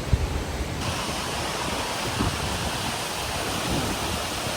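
Steady rushing roar of Sipiso-Piso Waterfall's falling water, growing brighter and hissier about a second in. Wind buffets the microphone with a low uneven rumble and a brief jolt just after the start.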